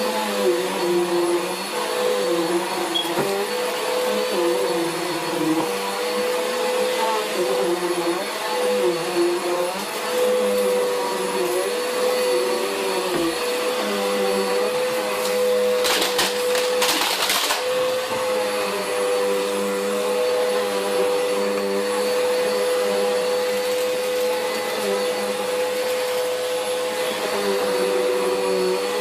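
Upright vacuum cleaner running steadily with a high motor whine. About halfway through there is a brief burst of rattling clicks lasting a second or so.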